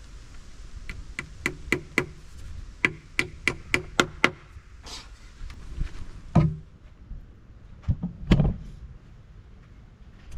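A run of about a dozen sharp knocks, roughly three to four a second, like hammer or tapping strikes on wood, then a few heavier single thumps later on.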